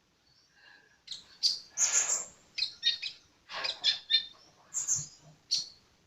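Sunbird singing busily: a quick run of sharp, high-pitched chirps and twittering notes, starting about a second in.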